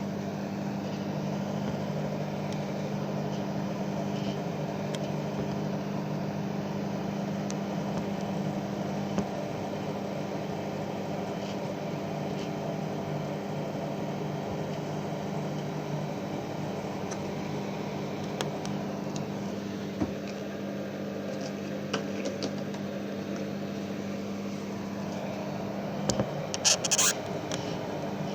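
Microwave oven running, a steady hum, as it heats chicken nuggets on a one-minute cycle. A few sharp clicks near the end.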